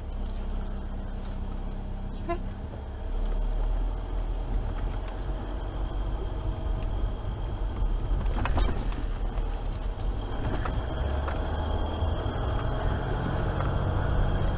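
Jeep engine running steadily while driving along a trail, with a few sharp knocks or rattles about eight and a half seconds in.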